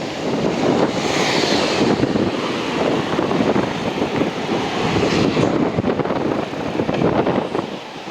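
Wind blowing across the camera microphone: an uneven, fluttering rush of noise.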